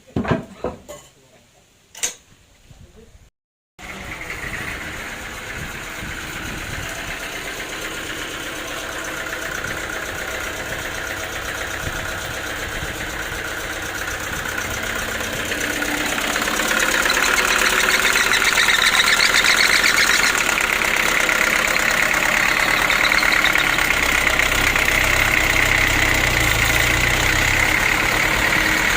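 The engine of a homemade sawmill running steadily after a few sharp knocks and a short break. About halfway through it grows louder and stays there.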